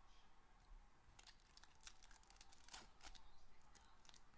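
Near silence with a few faint, scattered crinkles and clicks, like packaging or cards being handled.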